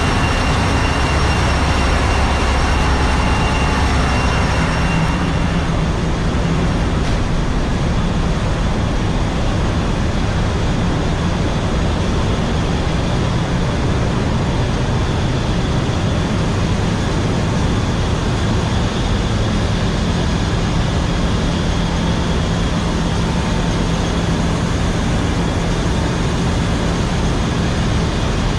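Loud, steady drone of a tanker's engine room: diesel engines and auxiliary machinery running, with a low hum underneath. A faint high whine fades out about five seconds in.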